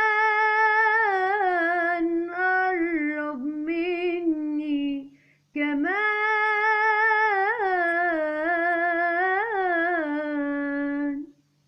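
A woman's solo singing voice holding long notes with vibrato and small ornaments in two phrases, with a brief break about five seconds in; the second phrase ends just before the close.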